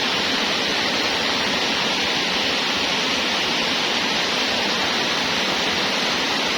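A steady, even rushing noise with no breaks, strongest in the upper-middle range.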